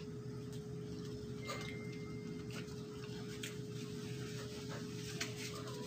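Quiet chewing of a catfish taco with scattered faint mouth and food-handling clicks, over a steady low hum.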